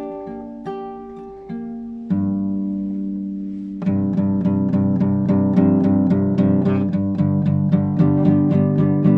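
Classical guitar played solo in an improvisation: a few single plucked notes, a low chord struck about two seconds in and left ringing, then a quick run of plucked notes over a held bass from about four seconds in.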